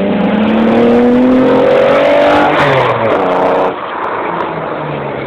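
Cosworth V6 engine of a Cobra replica kit car accelerating hard, its pitch rising, dipping at a gear change about two and a half seconds in and rising again. The sound drops abruptly just before four seconds in and fades as the car pulls away.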